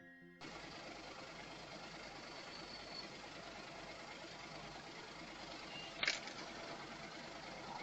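Steady road and engine noise of a moving car, heard through a dash cam's microphone, with one sharp click about six seconds in. A short musical chime ends just before it begins.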